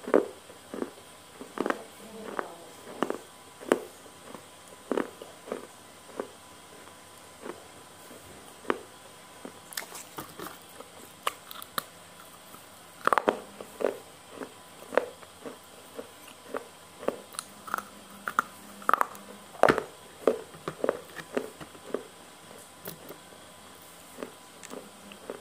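A person chewing spicy noodles right at a small clip-on microphone: irregular wet mouth clicks and smacks, a few a second, thinning out for a few seconds near the middle and picking up again after.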